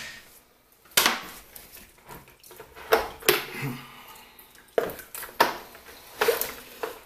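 Irregular sharp metal knocks and clatter, about seven over a few seconds, from hammer and pin-driver work on a cast-iron vise while trying to drive out a seized pin.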